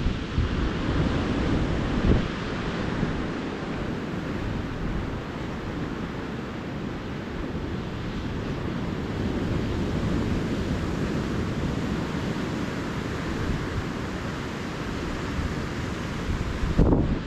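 Ocean surf washing steadily on a beach, with wind buffeting the microphone as a low rumble. Two louder gusts hit the microphone, about two seconds in and near the end.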